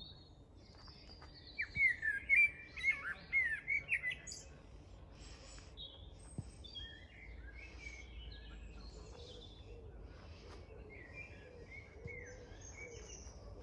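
Songbirds singing: one loud, rapid phrase of quick, sweeping notes about two seconds in, then quieter chirps and song from several other birds.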